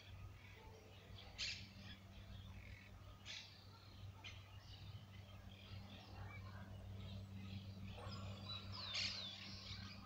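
Wild birds calling faintly: a few short chirps spaced out, then a clear whistle falling in pitch near the end. A steady low hum runs underneath.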